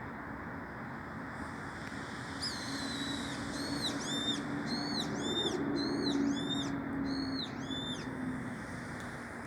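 A bird calling: one falling call, then a run of about nine short notes that each rise and fall, roughly two a second, over a steady low hum and background noise.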